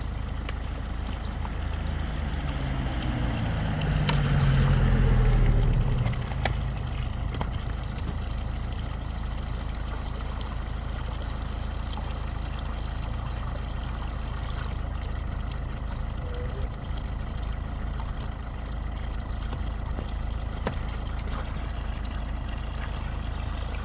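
A vehicle engine running with a steady low rumble. It rises in pitch and grows louder about three to five seconds in, then drops back to the steady rumble.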